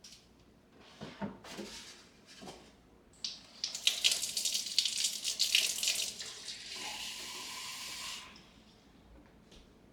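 Water tap running: a few handling knocks, then water splashing hard for about three seconds, settling into a steadier stream before the tap is shut off about eight seconds in.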